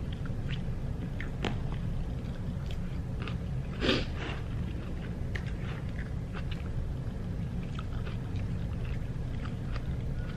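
A person chewing food close to the microphone: scattered small mouth clicks, one louder about four seconds in, over a steady low room hum.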